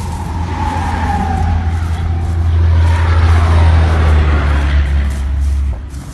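Heavy emergency vehicle's engine rumbling loudly close by, swelling and then dropping off suddenly near the end, with a faint siren wail gliding down and then up.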